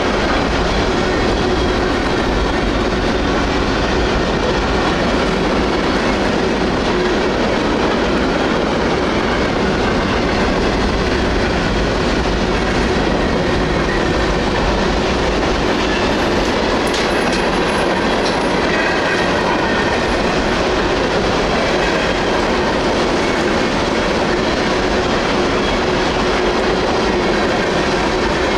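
Freight train rolling past at close range: a steady din of steel wheels on rail with a clickety-clack over the rail joints, and a faint high wheel squeal briefly about two-thirds of the way through.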